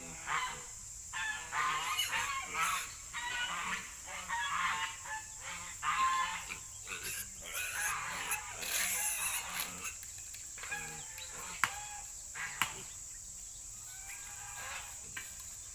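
Poultry calling over and over through the first ten seconds or so, then quieter with a few fainter calls and two sharp clicks, over a steady high-pitched tone.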